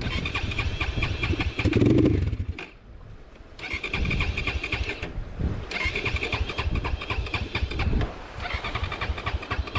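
Dirt bike's electric starter cranking the engine in four bursts of a couple of seconds each, with short pauses between, without the engine catching. The bike has been flooded in a river crossing and water is suspected in its air filter.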